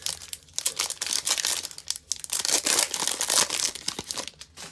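Crinkling, tearing plastic of a trading-card pack wrapper being ripped open and crumpled, a dense crackle that is loudest past the middle and stops abruptly at the end.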